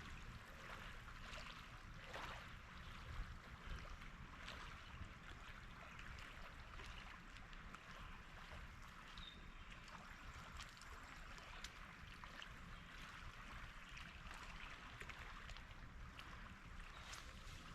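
Faint lakeshore ambience: a steady low rumble under an even hiss, with scattered small clicks and one brief knock about three seconds in.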